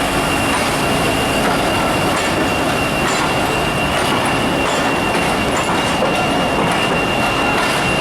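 Sirajganj Express passenger train running past on the rails: a loud, steady rumble with faint wheel clicks and a thin, steady high whine over it.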